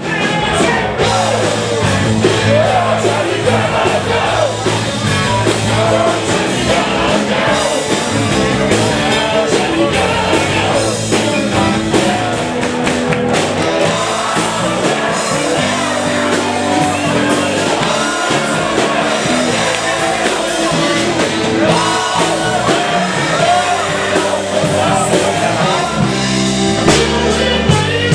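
Rock band playing live, with a singer over drums and bass guitar.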